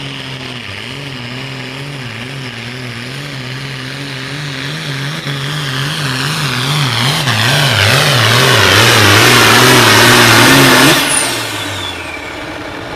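John Deere 4450 pulling tractor's six-cylinder diesel working hard under load on a pull. The engine note wavers up and down and grows steadily louder as the tractor comes closer. About eleven seconds in the throttle is cut and the engine drops back sharply, the end of the run.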